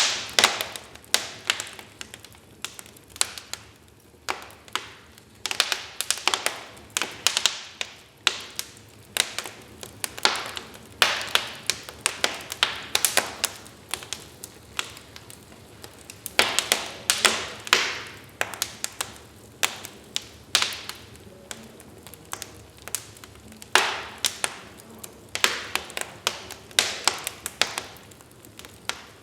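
Wood fire burning in a fireplace: irregular crackles and sharp pops from the burning logs, some in quick clusters, over a soft background hiss.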